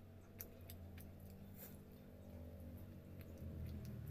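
Faint chewing and wet mouth clicks of a person eating soft fish and rice by hand, with a steady low hum underneath.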